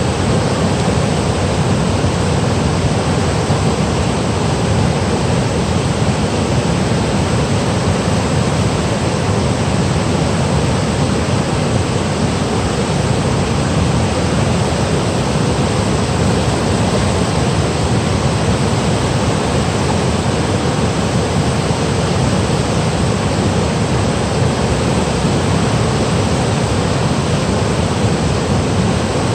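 Valley stream water rushing steadily over rocks and a small waterfall, a constant, even rushing.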